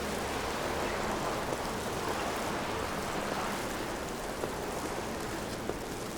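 Steady hiss of a snowy city street, mostly tyres running on wet slush, swelling a little in the middle, with a few faint ticks near the end.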